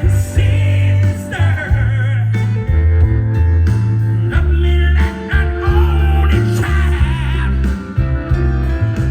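Live rock band playing loud, with electric guitar, heavy bass and drums, and a male lead vocal singing over it.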